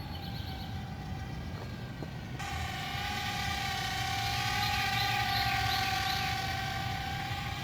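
Hasakee mini quadcopter's propellers and motors whining steadily in flight, the whine becoming clearly louder about two and a half seconds in, over a steady low rumble.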